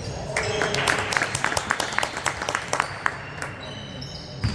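Spectators in a gym clapping: a quick, uneven run of hand claps for about three seconds that then dies away, with one sharp knock near the end.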